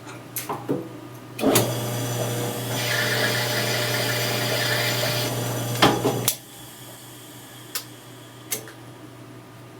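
An electric power tool starts and runs for about five seconds, with a harsher cutting or grinding noise in the middle of the run, then stops. A few sharp clicks and knocks come before and after.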